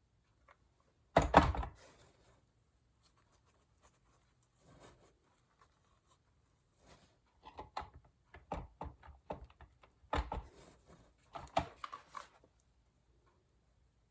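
Handling noise of craft materials on a work surface: a sharp thunk about a second in, then a run of light knocks and taps from about halfway through.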